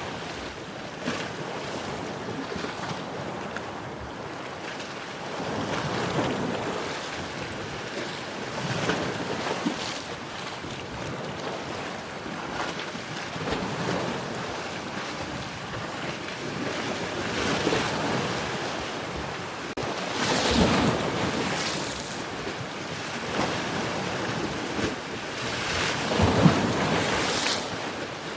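Ocean waves breaking and washing in, swelling and fading every few seconds, with the loudest wave near the end.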